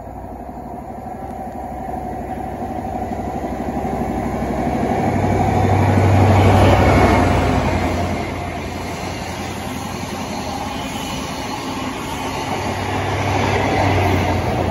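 A test train with a Class 43 HST diesel power car at each end passes at speed. The leading power car's engine swells to a peak about six seconds in, the coaches rumble past on the rails, and the engine sound of the rear power car rises again near the end.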